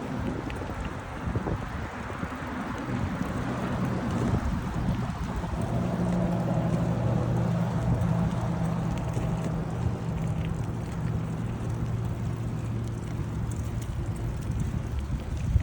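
Wind rushing over the microphone of a moving bicycle, with a motor vehicle's engine humming close by for several seconds in the middle.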